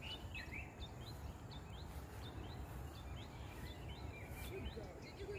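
Outdoor morning ambience: a bird chirping in quick, short rising notes, repeated every few tenths of a second, over a faint low rumble.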